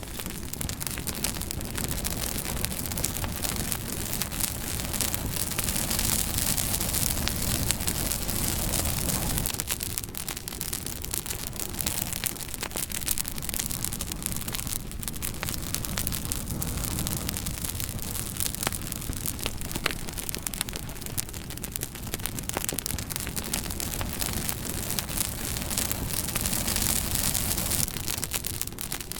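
Wood fire crackling: a steady hiss scattered with sharp pops and snaps, over a low rumble that drops away about ten seconds in.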